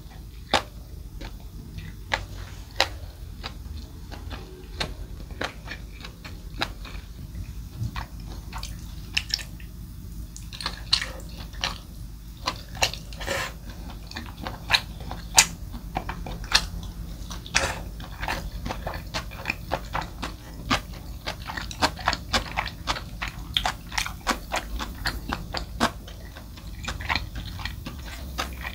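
Close-miked eating sounds: chewing with many short, sharp, wet smacks and clicks, sparse at first and coming thick and fast after about ten seconds.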